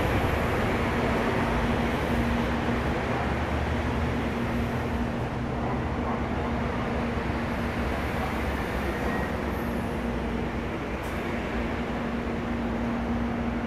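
Stopped 700 series Shinkansen train standing at the platform, its onboard equipment giving a steady noise with a low hum. The noise of a train that has just passed on the through track fades away over the first couple of seconds.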